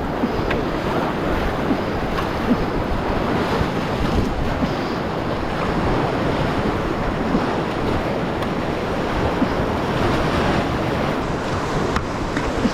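Whitewater of a river rapid rushing steadily, with wind noise on the microphone.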